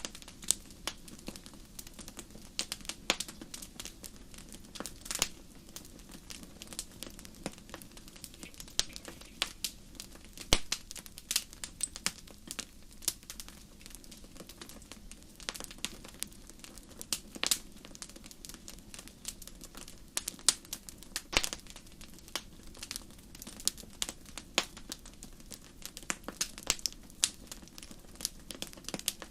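Fire crackling in a fireplace: irregular sharp pops and snaps, often several a second, over a steady low rumble.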